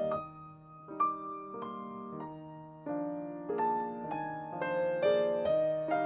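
Soft background piano music: slow single notes and chords.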